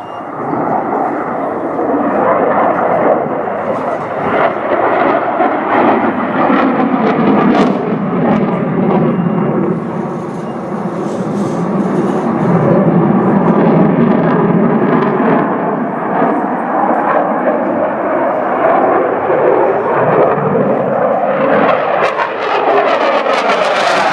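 Jet aircraft flying past, a loud continuous roar whose pitch sweeps up and down as it passes, swelling brighter and louder again near the end as it comes close.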